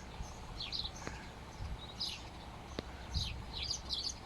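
Small birds at a colony of nests giving short, high chirps, scattered irregularly and overlapping.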